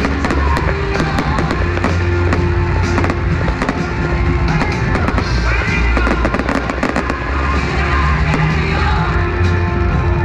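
Fireworks going off in quick succession, with many sharp bangs and crackles, over loud music with a heavy bass.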